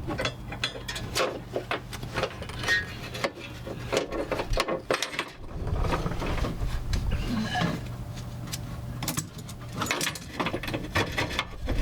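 Irregular metallic clicks, rattles and scrapes of a fish wire and carriage bolt being worked through a bolt hole in a vehicle's frame for a tow hitch, over a steady low hum.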